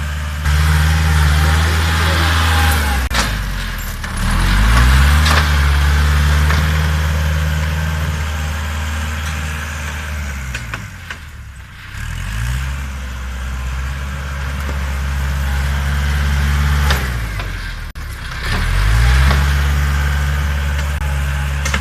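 Kubota farm tractor's diesel engine running while it pushes and grades soil. Its pitch drops and climbs back up three times, with a few sharp knocks in between.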